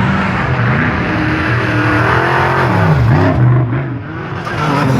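Off-road race vehicle engines running hard under throttle. The engine pitch dips and comes back up about three seconds in, as when the driver lifts off or shifts.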